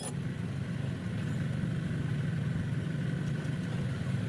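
An engine idling steadily: a low, even rumble.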